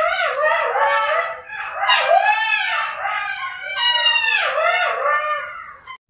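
Fennec fox giving a continuous run of high, whiny calls, each rising and falling in pitch, several a second. The calls cut off suddenly just before the end.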